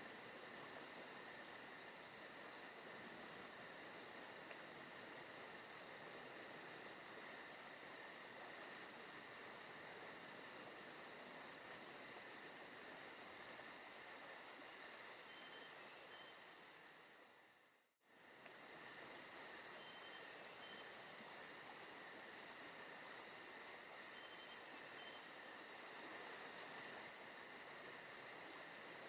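Faint forest ambience of crickets chirping steadily, a fast high pulsing trill over a constant insect hum, with a few short chirps. About sixteen seconds in the whole sound fades out to nothing and comes straight back.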